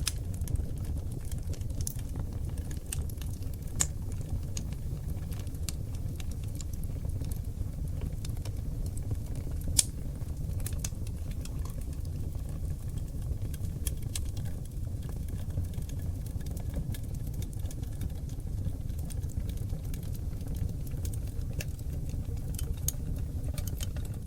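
Wood fire of seasoned oak logs burning in a fireplace: a steady low rumble of flames with scattered sharp crackles and pops, the loudest pop about ten seconds in.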